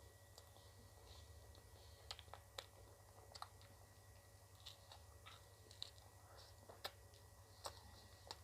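Faint chewing and wet mouth clicks of someone eating ice cream close to the microphone, as a scattering of soft, separate clicks.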